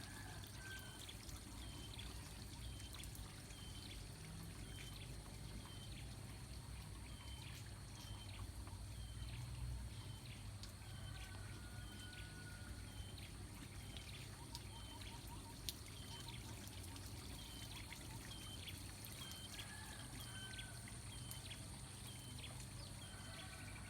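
Water pouring and trickling steadily. Over it, a small creature's short chirp repeats about once a second, with a few whistled bird notes now and then.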